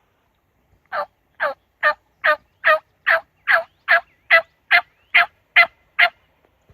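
A run of thirteen loud, evenly spaced turkey yelps, about two and a half a second, starting about a second in.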